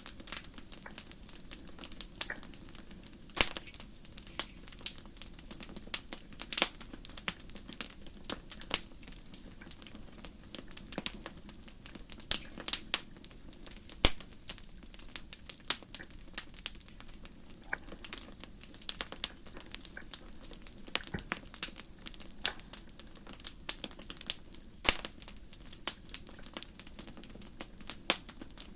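Wood fire crackling: irregular sharp pops and snaps of burning wood over a low steady hiss, with an occasional louder crack.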